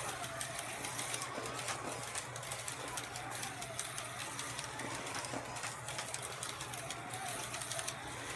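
Carrera Digital 132 slot cars' small electric motors whining, the pitch rising and falling over and over as the cars speed up and slow down around the track, with light clicks.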